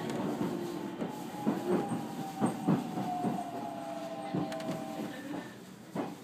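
JR 313-series electric train running, heard from inside the car: the wheels click over rail joints with an irregular beat, under a thin whine that slowly falls in pitch.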